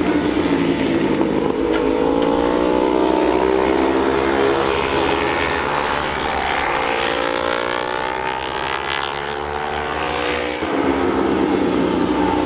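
Several Honda CB500 parallel-twin race motorcycles running hard, their overlapping engine notes rising and falling with the revs. There is a short dip about ten and a half seconds in, then the revs climb again.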